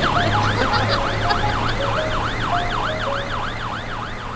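Cartoon fire truck siren wailing up and down in quick sweeps, about two a second, over a steady low engine hum. It fades away gradually toward the end.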